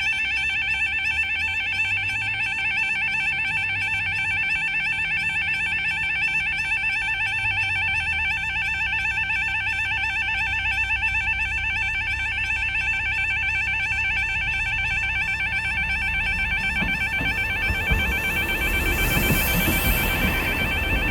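Level crossing alarms sounding a fast, warbling electronic tone that starts suddenly and carries on without a break. One of the alarms is water-damaged, which gives it a very fast, fire-alarm-like sound. A low rumbling noise rises over the last few seconds.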